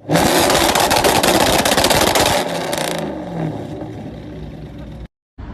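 Vehicle collision: a sudden loud crunching and scraping with dense crackling lasting about two and a half seconds, then dying down into a lower rumble of road noise.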